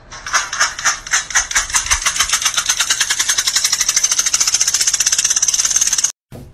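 A cat hissing in rapid, harsh puffs, about eight a second at first and quickening to over a dozen a second, cut off suddenly near the end.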